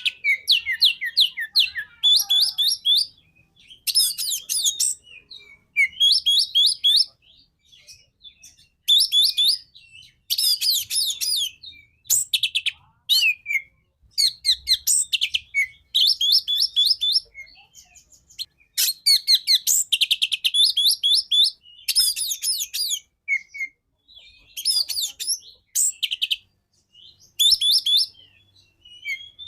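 Oriental magpie-robin (kacer) singing vigorously: loud phrases of rapid rising and falling whistled notes, each about a second long, repeated with short pauses between them.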